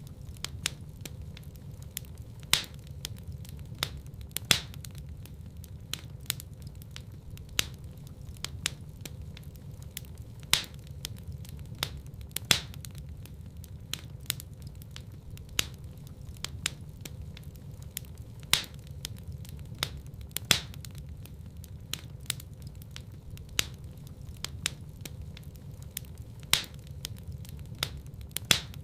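Wood fire burning in a fireplace: a steady low rumble of flame with irregular crackles and sharp pops, a few of them louder.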